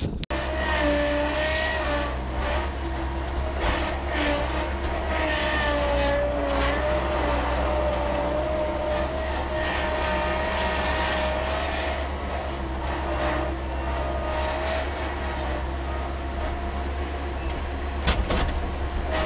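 Skid steer engine running steadily, with a deep drone and a higher whine that wavers a little in pitch.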